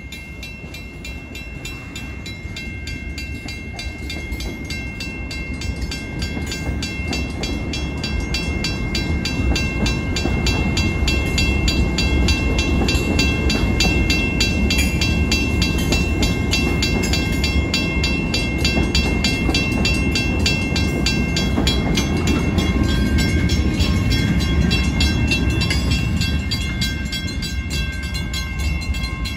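Union Pacific freight train's gondola cars rolling past on the rails: a steady rumble of wheels that grows louder over the first ten seconds or so and eases near the end. A grade-crossing bell rings over it.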